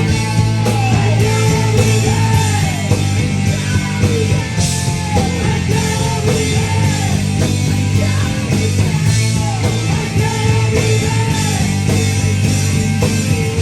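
Live rock band playing loudly: an instrumental passage with a repeating melodic phrase over steady bass and drums.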